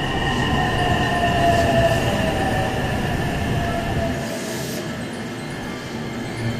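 Electric train moving along the station platform: a steady rumble with high, steady squealing tones and a motor whine that falls slowly in pitch as the train slows. A short hiss of air about four and a half seconds in.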